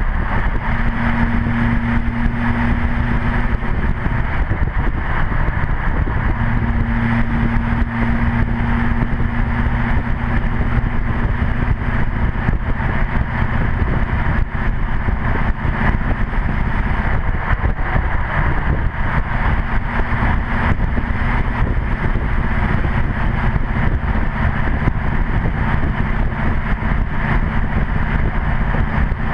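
Straight-piped 2008 LMM Duramax 6.6-litre V8 turbo-diesel, with catalytic converter, DPF and muffler deleted and the exhaust dumped over the rear axle, running as the truck drives. It is heard close up from a camera mounted on the truck: a steady, loud exhaust and road noise, with a low droning tone that comes in twice early on and faintly again later.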